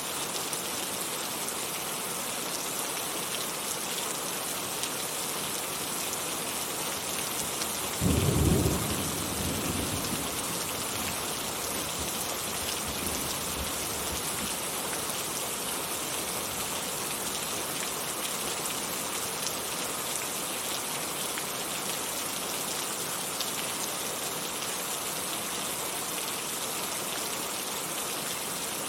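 Heavy rain falling steadily. About eight seconds in, a sudden low thunderclap breaks through and rumbles away over a few seconds.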